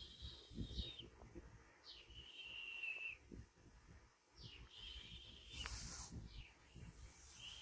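A faint bird call repeating about every two and a half seconds: each call sweeps up quickly and then holds one high whistled note for almost a second. Under it is soft rustling, with a brief hiss about six seconds in.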